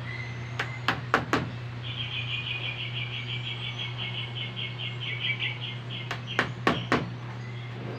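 Sharp clacks over a steady low hum: three about a second in, and three or four more near the end. Between them a high, rapid chirping trill lasts about four seconds.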